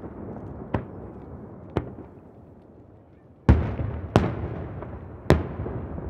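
Aerial firework shells bursting. Two lighter reports come in the first two seconds, then three loud booms from about halfway through, each trailing off in a long rolling echo.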